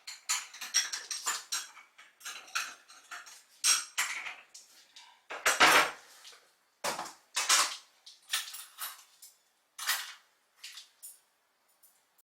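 Dishes and cutlery clattering: plates, bowls and metal utensils being handled and knocked together in irregular bursts with short pauses, the loudest clatter about halfway through.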